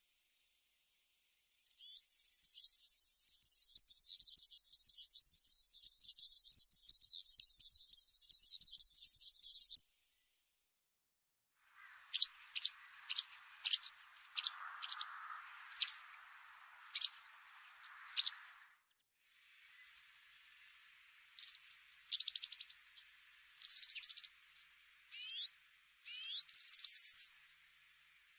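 Small songbird calls in three separate stretches with silent gaps: first a dense high-pitched trill, then a run of sharp single chirps, then a varied twittering song near the end.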